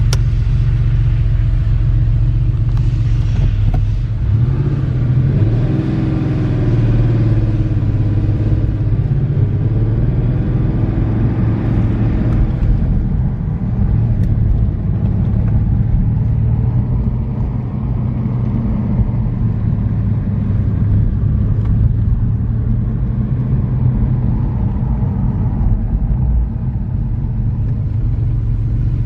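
Porsche 964's air-cooled flat-six engine running, its pitch rising and falling a few times between about four and twelve seconds in, then holding steadier.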